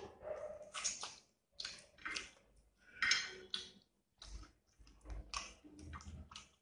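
Wet chewing and mouth sounds of eating rice and curry by hand, in irregular bursts, with squelching as fingers mix rice on the plate.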